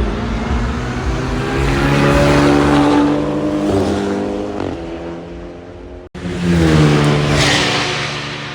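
GT race cars with heavily muffled exhausts passing at speed. One car's engine note rises and then falls away through a gear change. The sound cuts out abruptly about six seconds in, then a second car passes loudly, its pitch dropping as it goes by.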